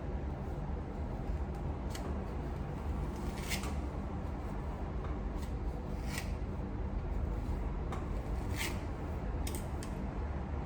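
Short scratchy rustles of hair being handled and twisted into sections, a few seconds apart, over a steady low rumble of background noise coming in through an open balcony door.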